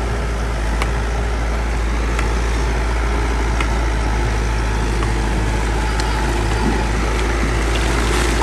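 Bulldozer's diesel engine running steadily at working load, with a few sharp metallic clicks now and then.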